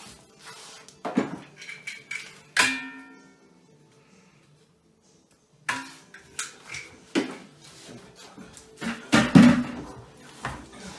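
Irregular knocks and clinks of hard objects being handled, one strike about two and a half seconds in ringing briefly; the sound drops out for over a second near the middle, then the knocking resumes.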